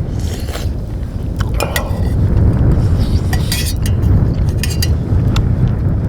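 Strong wind buffeting the microphone as a steady low rumble, with a few sharp clinks of a spoon against metal cookware during eating.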